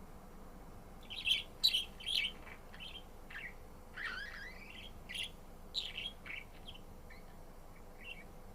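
Budgerigar chirping: a quick run of short high chirps starting about a second in, then scattered calls with a few sliding notes.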